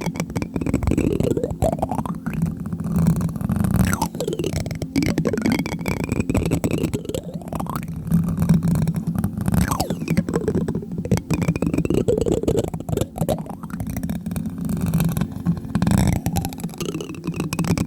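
Plastic spoon tapping on a microphone, a steady run of rapid, closely spaced taps heard very close up.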